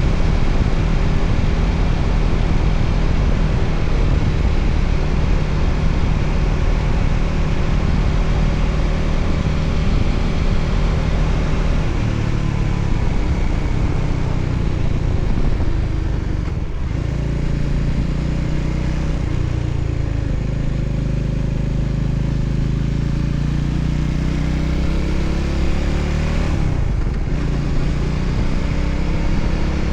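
Voge 300ACX single-cylinder motorcycle engine running steadily under way, over a constant rush of wind and road noise. The engine note briefly drops and shifts twice, about halfway through and near the end.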